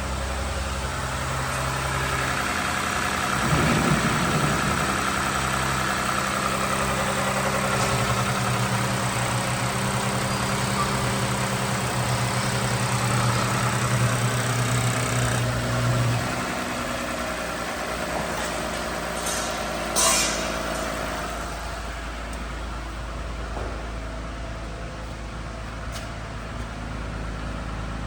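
2013 Lexus GS350's 3.5-litre V6 running at idle with a steady hum. The hum changes about halfway through, and a brief sharp noise follows a few seconds later.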